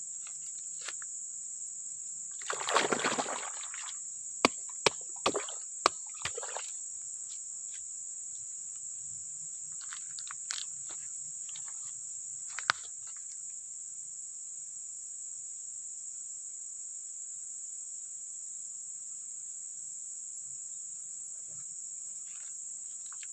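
Crickets and other insects chirring steadily in a high, even drone. About three seconds in, a short splash in water is the loudest sound, followed by a handful of sharp clicks over the next few seconds and one more about halfway through.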